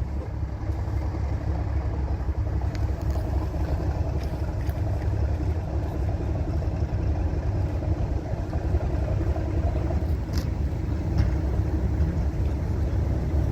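Diesel locomotive engine running, a steady low rumble.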